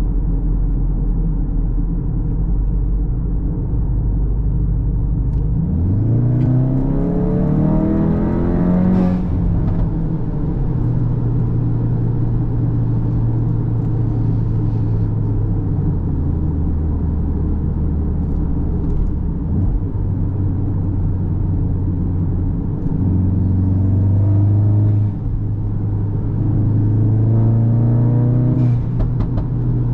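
Cupra Formentor's turbocharged 2.0 TSI four-cylinder engine and exhaust under driving. The engine cruises steadily at first, then revs up hard about six seconds in as the car accelerates, the note rising for about three seconds before settling at a steady pace. It pulls up again twice more near the end, with a brief drop between, as at a gear change.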